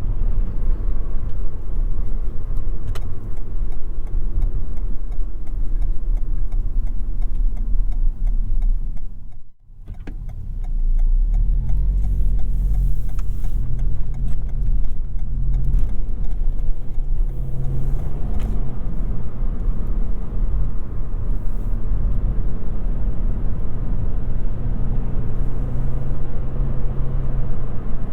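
Toyota Yaris 1.5 Hybrid driving in town, with tyre and road noise throughout. After a brief dip about a third of the way through, the three-cylinder petrol engine comes in with a steady low hum.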